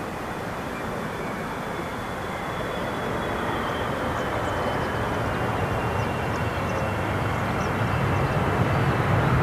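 Boeing 777-300ER's GE90-115B turbofan engines on landing approach: a steady rush of jet noise with a high fan whine that slides slowly down in pitch, growing louder as the airliner nears.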